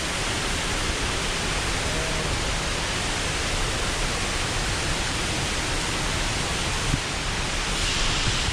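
Cascada Las Delicias waterfall: the steady, full roar of falling water, heard close to the falls.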